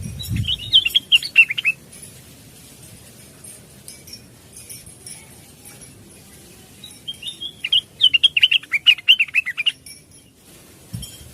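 Blue-winged leafbird (cucak wilis) singing in two bursts of rapid, chattering, sliding notes. The first burst, at the start, lasts about a second and a half. The second, longer burst runs from about seven to ten seconds in.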